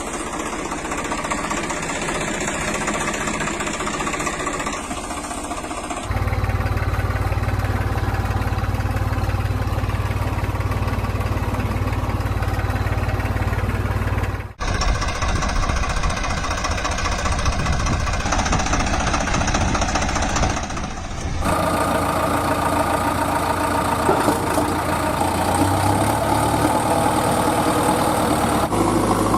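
Engines of heavy vehicles, tractor or backhoe loader, idling and running steadily, in several clips that change abruptly about 6, 15 and 21 seconds in; the middle stretch has a strong steady low hum.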